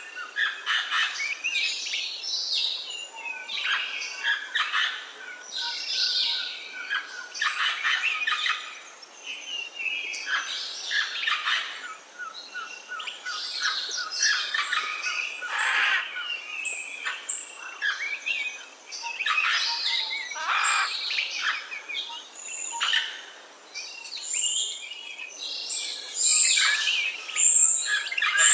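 A chorus of wild birds chirping and singing, many short overlapping calls and song phrases, with a few clear high whistled notes near the end.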